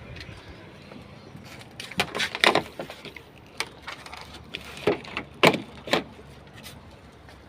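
A few sharp knocks and clicks of handling, spread over several seconds, the loudest about a third of the way in and again about three quarters through.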